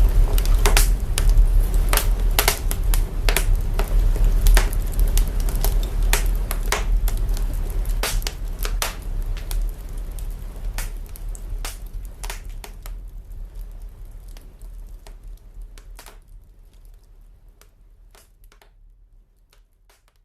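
Crackling fire put through signal processing: irregular sharp crackles and pops over a deep bass rumble, the whole sound fading gradually until it is gone near the end.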